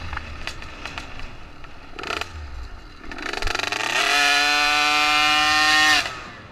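Small dirt bike engine revving: the pitch climbs, holds high and steady for about two seconds, then cuts off suddenly about six seconds in. A few sharp clicks come earlier.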